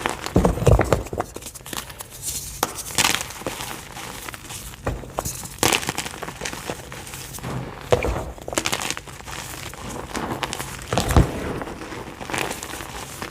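Block of white gym chalk being crushed and crumbled by hand, a soft crunching and crackling in irregular bursts, with a few sharper snaps near 1, 8 and 11 seconds in.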